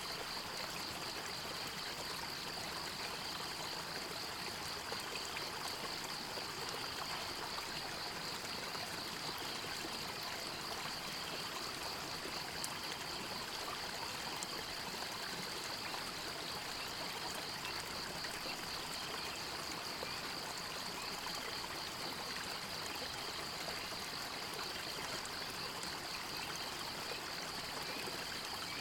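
Stream water flowing and trickling steadily, with a high, fast, pulsing trill running on unbroken above it.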